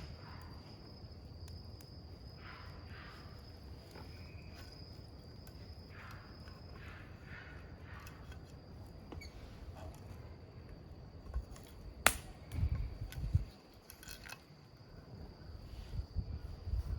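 Wood campfire crackling with small scattered pops, and one sharp loud snap about twelve seconds in, followed by low thuds.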